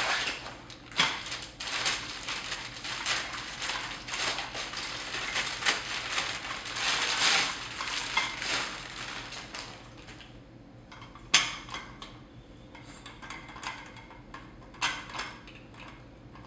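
Metal light stands being unpacked and handled: clinking and rattling of the stands' legs and tubes with rustling, busy for the first ten seconds or so, then sparser clicks and knocks with one sharp knock in the middle.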